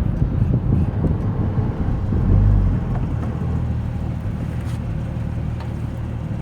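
Porsche 996 Turbo's twin-turbo flat-six running at low, even revs with tyre and wind noise. The drone swells briefly about two seconds in, then settles and fades gradually as the car slows.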